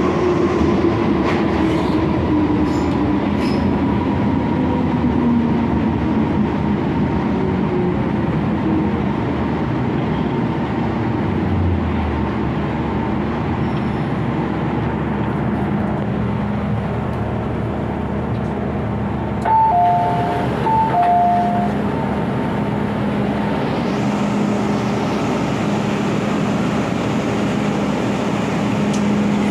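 MTR Kwun Tong Line M-Train heard from inside the car: running noise with a motor whine that falls in pitch over the first several seconds as the train slows, settling into a steady hum. About twenty seconds in, a short two-tone chime sounds twice.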